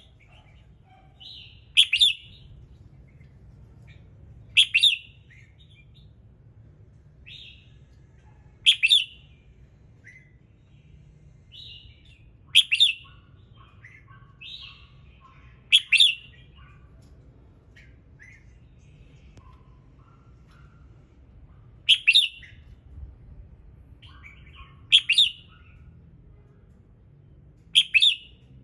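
Red-whiskered bulbul singing: about eight short, loud whistled phrases, one every three seconds or so, with softer chattering notes between them.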